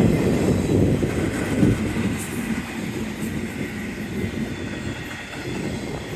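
Double-stack intermodal freight cars of a slow-moving BNSF train rolling past on the main line, a heavy uneven rumble of wheels on rail that grows quieter toward the end as the tail of the train nears.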